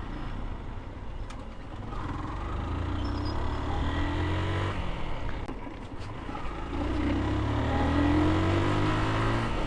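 Motorcycle engine pulling under acceleration, its pitch climbing twice, over road and wind noise.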